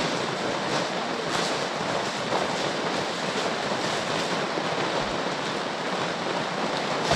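Heavy rain falling, a steady rushing hiss. A short low thump comes at the very end.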